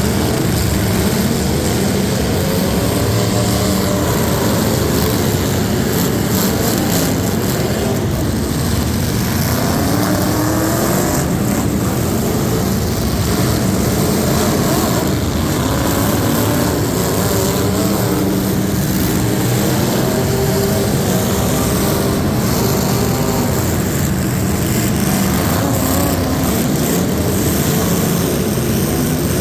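Loud competition truck engines running hard, their pitch rising and falling again and again as they rev.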